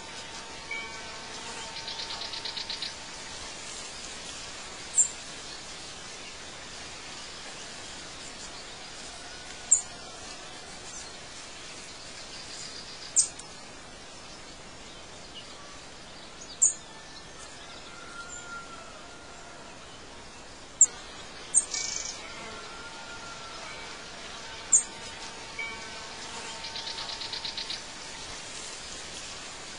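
Birdsong over a steady light background hiss: short, sharp high chirps every few seconds, a fast buzzy trill near the start and again near the end, and a few lower whistled notes.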